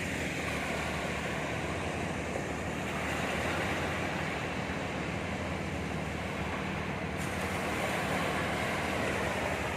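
Sea waves washing in steadily, with wind blowing on the microphone.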